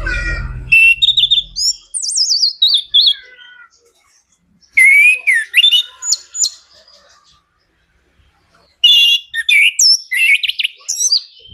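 Chestnut-capped thrush (anis kembang) singing loudly in three bursts of varied song: quick whistled phrases, trills and sweeping glides up and down, with pauses of about a second between bursts.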